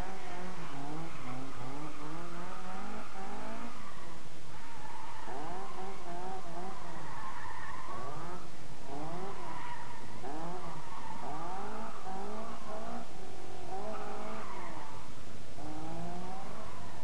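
Competition car's engine being driven through a slalom, the revs rising and falling over and over, about once a second, as the throttle is opened and lifted between the cones.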